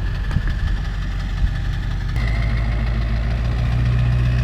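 Pickup truck engine idling, then building up about two seconds in as the truck pulls away slowly. Two light knocks sound in the first second and a half.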